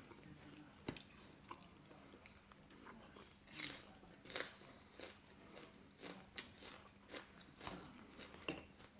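A person chewing and biting food close to the microphone: soft crunches and wet mouth clicks at irregular intervals, the mouthfuls being a grilled pork salad (laab nam tok) eaten with sticky rice.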